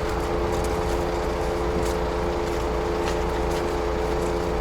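Truck diesel engine running steadily with an even hum, with a few faint clicks over it.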